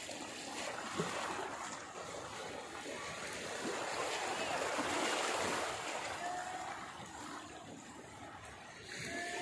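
Rushing water, a steady noisy wash that swells to its loudest about halfway through and then eases off.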